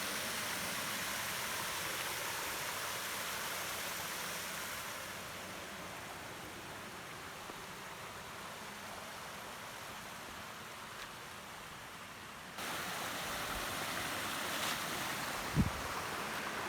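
Steady rush of flowing water from the river and waterfall. It grows quieter partway through, then comes back louder all at once. A short low thump sounds near the end.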